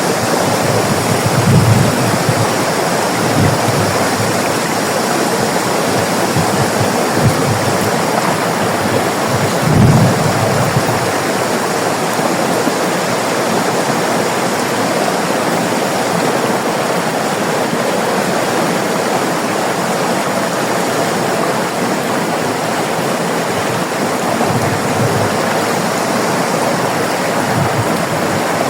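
River water rushing steadily over rocks, with occasional deeper gurgles, the strongest about a second and a half in and again about ten seconds in.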